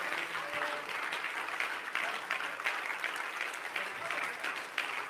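Congregation applauding steadily, a dense patter of many hands clapping, with a few scattered voices among it.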